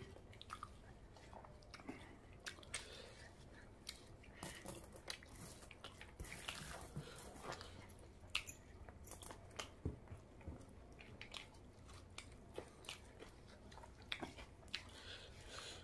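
Soft, close-up chewing of curry and rice eaten by hand, with many small irregular wet mouth clicks and smacks.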